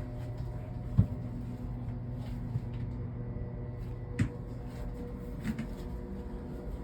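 Steady low hum in a room, with a sharp knock about a second in and a softer knock about four seconds in.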